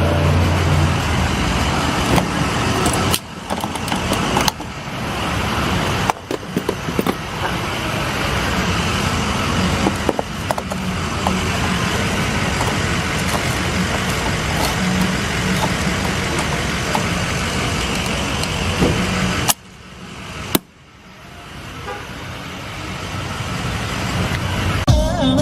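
Car running, with steady engine and road noise; the sound breaks off abruptly several times.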